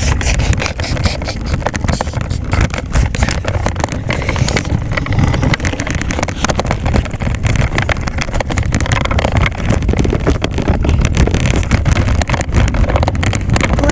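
Wind buffeting the microphone on a moving bicycle: a loud, unbroken low rumble with constant crackling.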